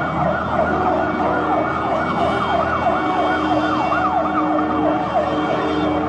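Emergency vehicle siren wailing in quick rising and falling sweeps over a noisy background.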